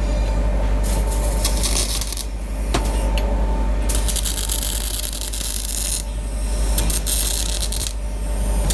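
Metalworking in a workshop: a steady low machine hum with intermittent bursts of high hissing and scraping, metal on metal.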